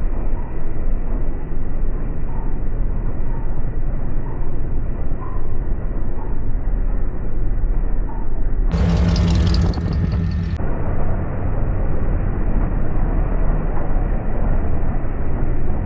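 A V8 pickup truck engine running with a steady, muffled rumble. About nine seconds in, a clearer, fuller engine note is heard for about two seconds before the muffled rumble returns.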